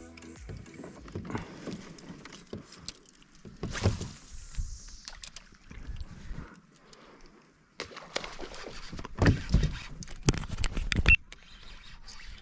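Handling noise: irregular knocks, clunks and rattles of gear being moved about. There is a brief swish about four seconds in and a run of louder, sharper knocks near the end.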